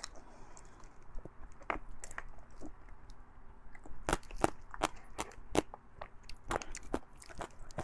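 Close-miked chewing of fatty beef bone marrow, with irregular sharp mouth clicks and smacks that come thickest in the middle.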